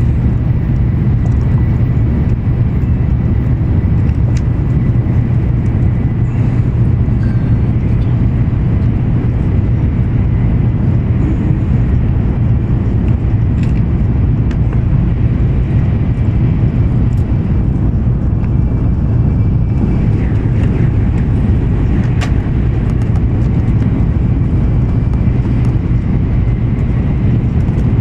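Steady running noise inside the passenger cabin of an N700 series Shinkansen at speed: a continuous low rumble from the running gear and rails, with a faint high whine held steadily above it.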